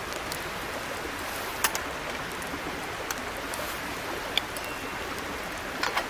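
Small mountain creek babbling steadily, with a few sharp clicks over it.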